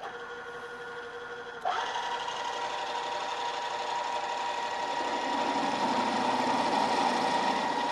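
A drill press spins a 1/2-inch twist drill. About two seconds in the drill meets the part and chatters: a loud, rough, ringing sound with a steady high tone that keeps on. The chatter is caused by the drill deflecting and jumping around the hole, usually a sign that the drill is running too fast.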